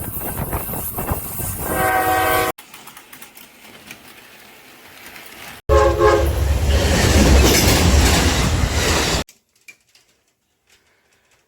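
Train horn sounding briefly twice over the noise of a passing train, in short clips joined by abrupt cuts; a heavy low rumble follows the second horn, then the sound cuts off suddenly to near silence.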